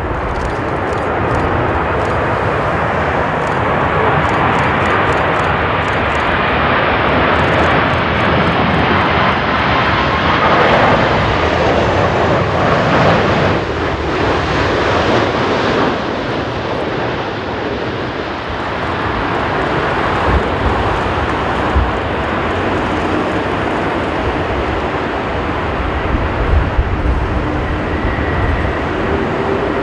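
Twin-engine jet airliner coming in to land, its engine noise swelling to a peak about halfway through and then easing off. Gusty wind buffets the microphone with low rumbling thumps.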